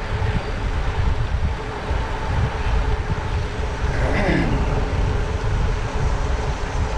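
Wind rushing over the microphone of a moving bicycle, with a motor vehicle passing about four seconds in, its pitch dropping as it goes by.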